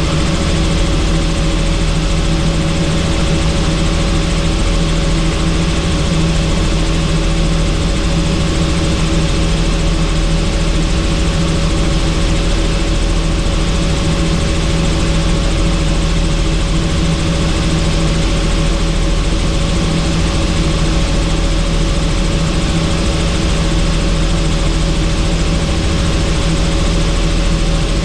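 Helicopter in steady cruise flight heard from on board: the engine and rotor make a constant, unchanging drone with a steady hum.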